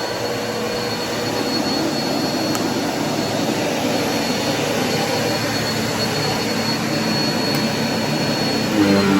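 Bissell vacuum cleaner running steadily, its motor a continuous whirring noise with a thin high whine. Near the end its tone changes to a louder, deeper hum.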